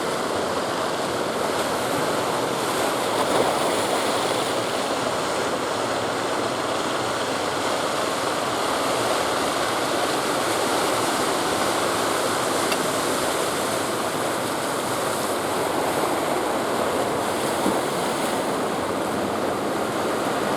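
Ocean surf, a steady rushing of waves.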